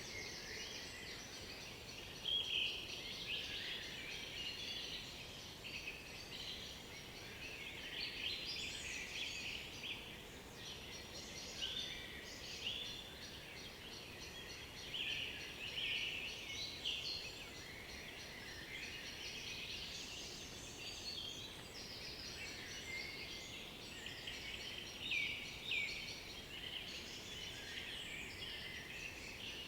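Several songbirds singing at once: overlapping phrases and chirps, with a few louder notes standing out now and then over a faint, steady background hiss.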